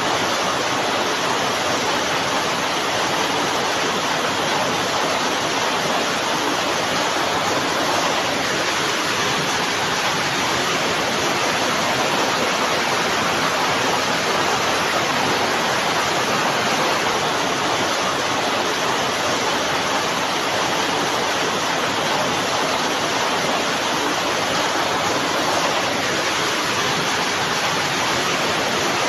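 Heavy rain falling as a steady, even hiss with no single drops standing out.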